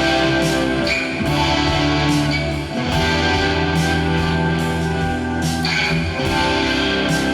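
Instrumental pop-rock music played on Fazley FTL200NT electric guitars, with bass guitar and programmed drums hitting roughly once a second under sustained guitar chords.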